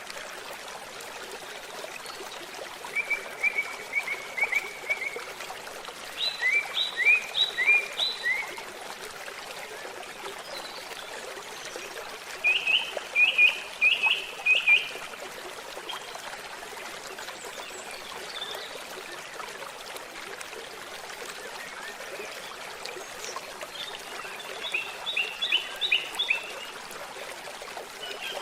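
A stream trickling steadily, with a songbird singing four short phrases of quick, repeated high notes: a few seconds in, around six seconds, around twelve seconds, and near the end.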